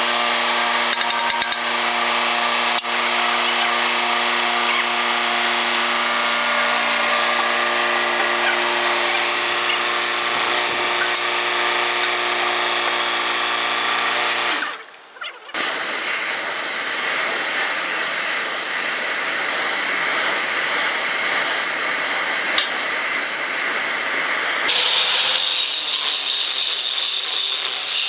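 Metalworking power tool running on the steel of a loader bucket: a steady machine whine over harsh hiss. After a brief cut about halfway through, a rougher scraping noise without the whine follows.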